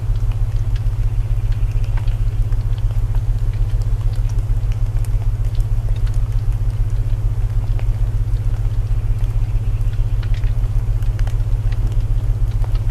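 Layered sleep soundtrack: steady low binaural tones, the loudest part, under faint rain and the scattered crackle of a wood fire.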